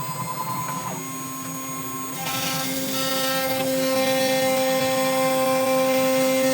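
CNC router spindle running with a steady whine, growing louder about two seconds in as a rushing cutting noise joins it.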